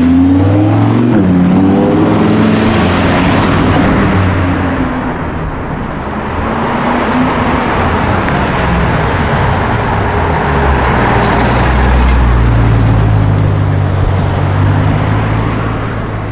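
Car engines and traffic on a city street. An engine's pitch slides up and down in the first couple of seconds, road and tyre noise fills the middle, and a steady low engine note runs through the later part.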